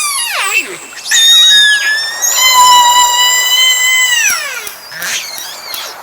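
An animal's high-pitched calls: a short cry falling in pitch, then one long, steady call that drops off in pitch at its end, followed by a few quicker, fainter calls.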